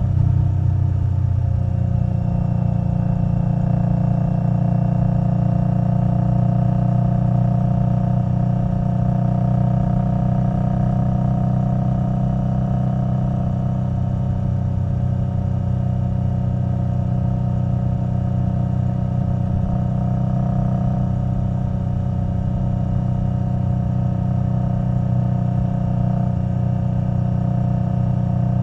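Indian Scout Bobber Twenty's liquid-cooled V-twin, breathing through a Vance & Hines Twin Slash exhaust, running at a steady cruise. The engine note shifts briefly about a second in, then holds even.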